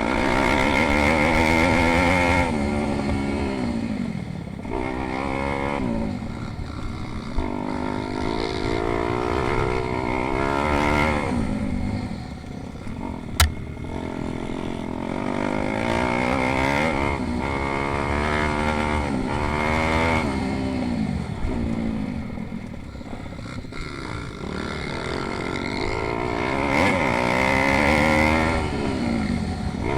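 Pit bike engines racing, revving up and falling back over and over as the bikes shift and pass, with the pitch sweeping up and down. The loudest passes come near the start and near the end, and there is one sharp click about halfway through.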